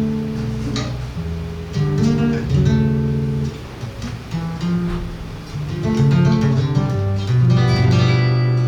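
Seven-string acoustic guitar played live, plucked chords and bass runs in Brazilian choro/samba style. A low bass note rings on near the end.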